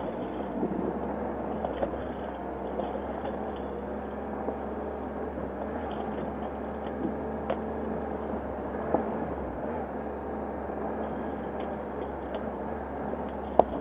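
Triumph Explorer XC's inline-three engine running steadily at low speed on a rough trail, with occasional sharp knocks and clicks; the loudest knock comes near the end.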